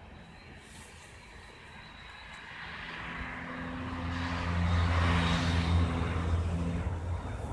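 Passenger train approaching at speed, its noise growing steadily louder, with a steady low drone that starts about three seconds in and stops about seven seconds in.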